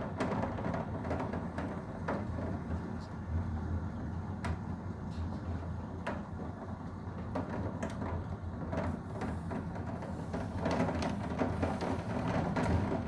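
Thunderstorm rain with a steady low rumble of wind and scattered sharp hits of drops on nearby surfaces, growing heavier about two-thirds of the way in.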